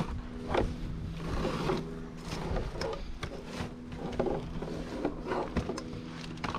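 A vehicle engine runs with a steady hum, with scattered knocks and rattles over it.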